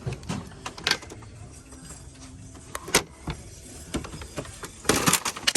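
Scattered knocks and clicks of hard objects being handled, with a quick run of clattering near the end.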